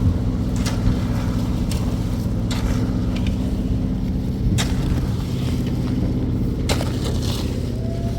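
An engine running steadily, with a few sharp knocks and clicks scattered over it.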